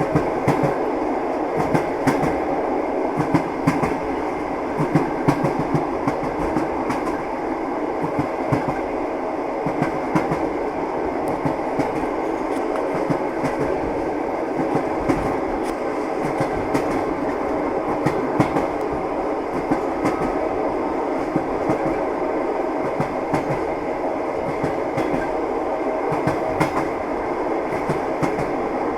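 Moving train: wheels clattering over the rail joints, with irregular clicks above a steady rumble of the carriage.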